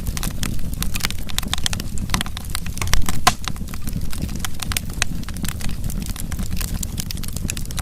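Wood fire in a fireplace crackling: a dense, irregular run of sharp pops and snaps over the low, steady rush of the flames, with one louder pop about three seconds in.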